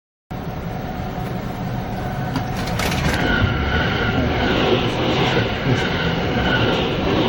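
Train noise heard inside a passenger car: a steady rumble that builds slightly, with a faint higher tone repeating a little faster than once a second from about three seconds in.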